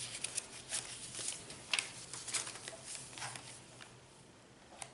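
Paper pages of a handmade junk journal rustling and flicking as they are handled and turned, a quick run of short rustles with the sharpest about two seconds in, quieter near the end.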